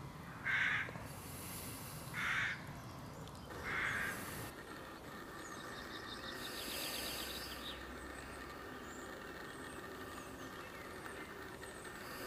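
A bird calling outdoors: three loud, short calls, one about every second and a half, in the first four seconds. After that, quieter fast trilling and chirps from small birds.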